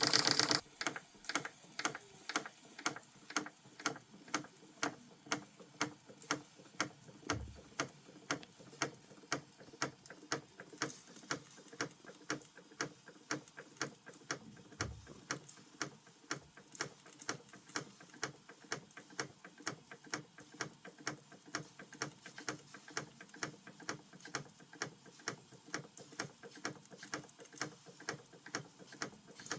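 Small model marine steam engine turning over slowly, ticking in a steady rhythm of about two clicks a second. A louder steady running sound cuts off about half a second in.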